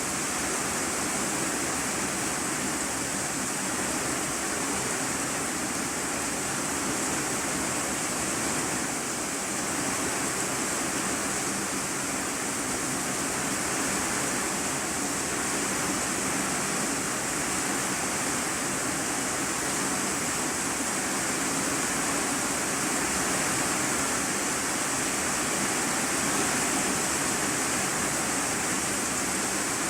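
Heavy rain falling on an iron-sheet roof, heard from inside the room beneath it: a steady, unbroken hiss.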